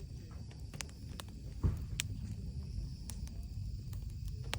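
Wood fire crackling in a camping fire pit: irregular sharp pops and snaps over a low rumble, with one dull thump about a second and a half in.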